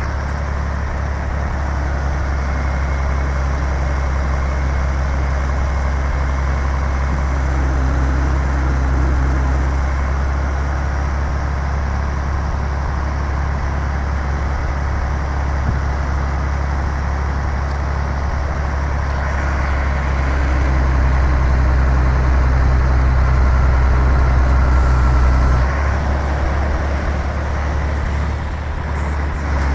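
Iveco 380E42 6x6 heavy truck's diesel engine running steadily with a deep, even hum; it gets a little louder for several seconds in the last third, then settles back.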